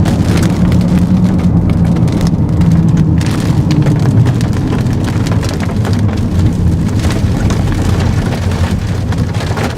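Vehicle engine running with a steady low hum, under a loud, dense crackling noise.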